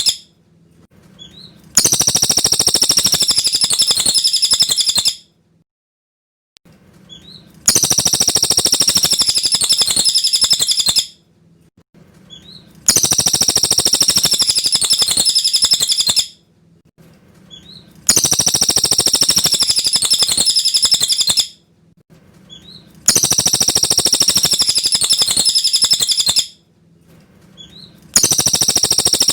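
Cililin bird singing high, rapid, clear song phrases of about three seconds each. The phrases repeat at even spacing about every five seconds, with short pauses between them.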